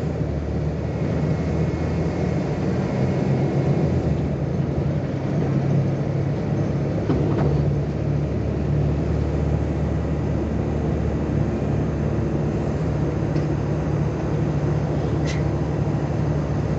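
Volksbus 18-280 OT LE city bus's diesel engine running steadily with a low drone, its pitch shifting slightly a few times.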